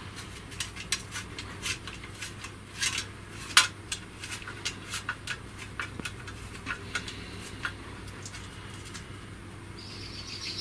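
Irregular light metallic clinks and ticks of a bolt and the stainless steel gearbox guard being handled and the bolt done up by hand, thickest in the first half. Near the end a short high chirp falls in pitch.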